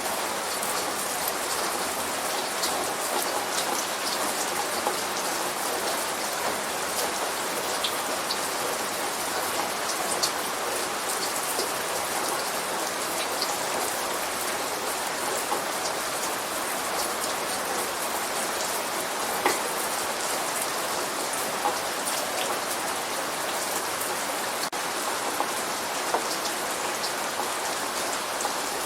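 Light rain falling steadily: an even hiss with scattered sharp drip ticks.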